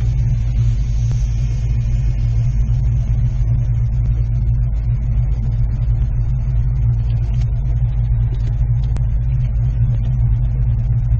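Car engine running steadily at low speed as the car rolls slowly, a low, even rumble heard from inside the cabin.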